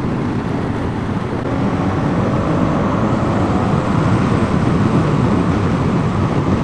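Riding noise heard from inside a motorcycle helmet: steady wind rush over the BMW R1250GS Rallye TE's boxer-twin engine, whose note rises slightly partway through as the bike picks up speed.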